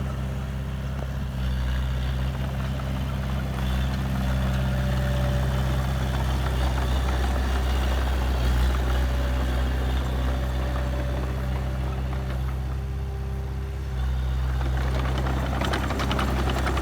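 Heavy diesel engine of an earthmoving machine running steadily with a deep, even hum, easing slightly in loudness for a couple of seconds before picking up again.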